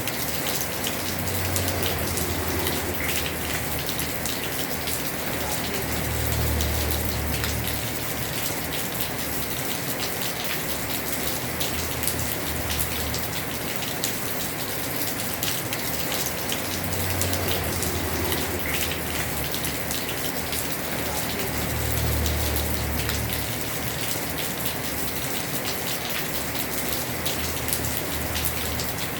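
Heavy rain falling on a house roof: a steady dense hiss with fine drop patter, under a low rumble that swells and fades several times.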